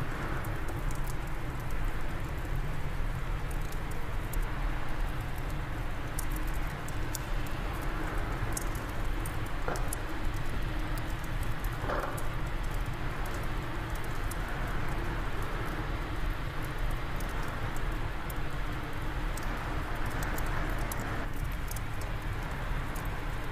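Fireplace fire crackling, with scattered sharp pops and ticks over a steady rumble of wind.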